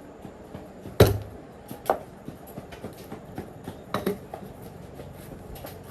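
Metal parts and hand tools knocking and clinking during repair work: a loud knock about a second in, further knocks near two and four seconds, and light clicks in between.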